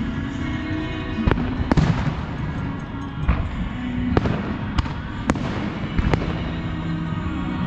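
Aerial fireworks shells bursting at a professional display: about seven sharp bangs at irregular intervals over a continuous crackle and rumble. Music plays alongside.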